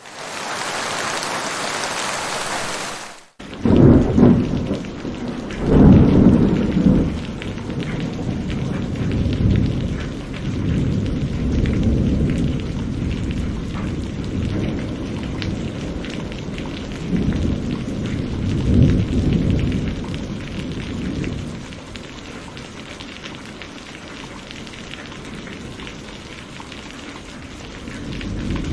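A bright hiss that cuts off abruptly after about three seconds. Then steady heavy rain with several long low rolls of thunder, the loudest two early on, easing to rain alone over the last few seconds.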